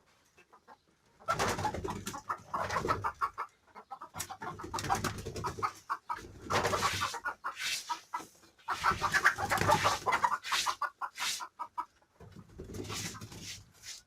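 Domestic chickens clucking and pigeons cooing in several bursts with short pauses between them.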